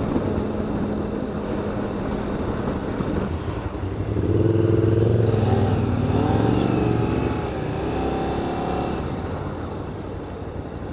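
Motorcycle engine running under way with steady road and wind rumble. Between about four and nine seconds in the engine gets louder and its pitch rises and falls as it pulls harder.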